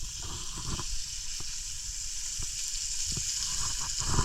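Food frying in butter in a pan, a steady sizzle, with a few light clicks as the pieces are turned over.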